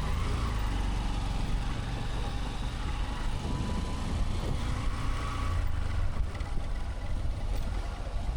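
Motorcycle running on the road: engine and road noise blending into a steady low rumble.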